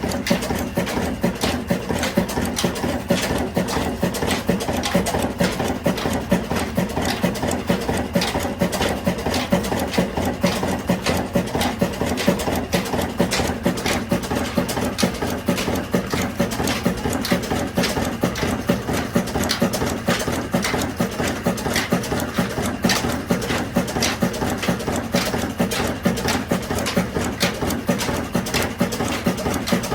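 Diesel engine running steadily, its firing strokes beating in an even rhythm of regular thumps over a steady hum.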